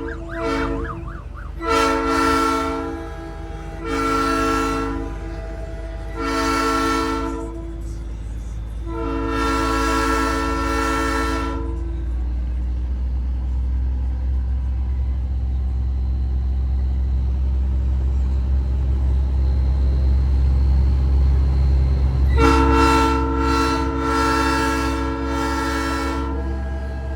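Nathan Airchime P3 train horn sounded in a series of blasts: several short blasts about two seconds apart, then a longer one, then after about ten seconds a long blast that breaks up briefly near its end. A low truck engine drone runs beneath.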